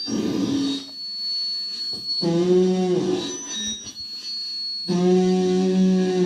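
A voice held on long notes into a microphone run through a Metal Zone and a death-metal distortion pedal: buzzy distorted tones a second or two long that sag downward in pitch as each ends, with harsh noise between them and a thin high whine above.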